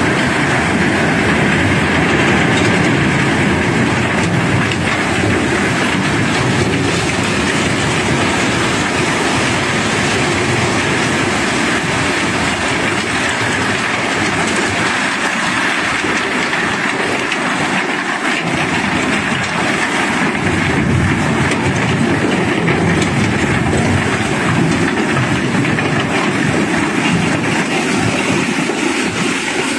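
Cobblestones unloaded from a barge, pouring in a steady stream with a continuous dense clatter of rock on rock.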